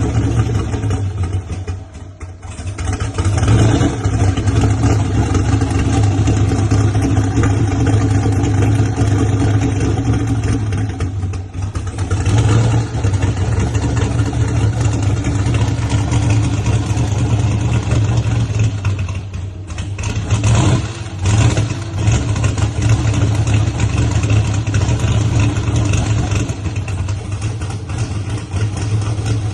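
V8 engine of a tuned performance car running loud and steady, with brief dips in level about 2, 11 and 20 seconds in.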